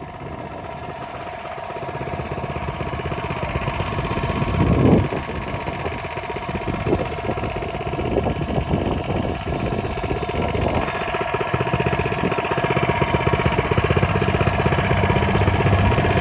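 A Coleman mini bike's small single-cylinder engine runs steadily with a fast, even beat, gradually getting louder, with a brief louder swell about five seconds in.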